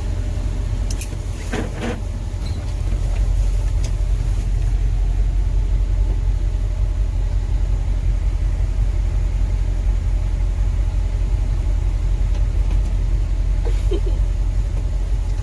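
M1028 CUCV's 6.2-litre V8 diesel engine running, with a steady low rumble that grows louder about two and a half seconds in and stays there, as the truck is driven on an icy, snow-covered hill.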